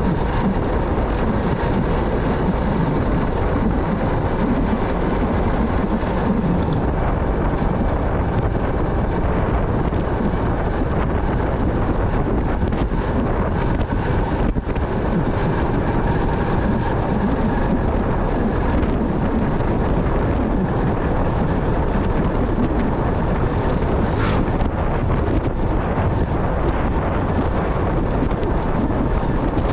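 Motorcycle under way: steady engine and road noise, with wind buffeting the microphone.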